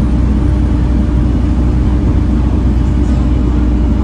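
Volvo B7TL bus's diesel engine running steadily: a constant low drone with an even hum over it.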